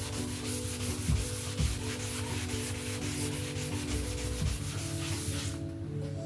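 Wet sandpaper on a sanding block rubbing a primed boat hull by hand, in rapid back-and-forth strokes that stop about five and a half seconds in.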